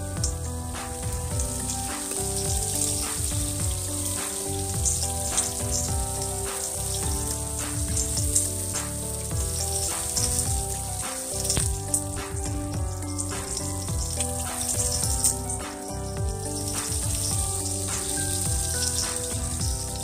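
Chicken pieces sizzling as they fry in oil in a nonstick wok, with metal tongs clicking against the pan as the pieces are turned and lifted out. Background music with a stepping melody plays along.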